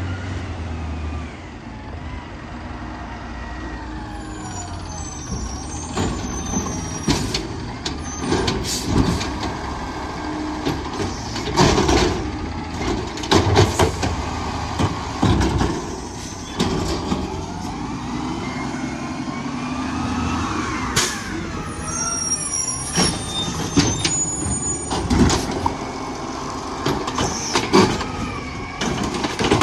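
Garbage truck at work: its engine revs up and down as it powers the hydraulics, with runs of loud bangs and knocks typical of carts being lifted, shaken out and dumped into the hopper.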